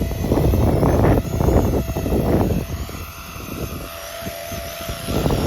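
Walkera DQ59 EC155 Dauphin scale RC helicopter, powered by two brushless motors, whirring with a steady motor whine as it comes in to land. Wind buffets the microphone loudly in the first half and again near the end.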